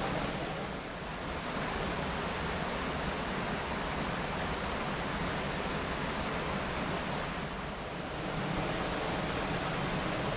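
Steady rush of water pouring over a small river waterfall (grojogan), dipping slightly twice.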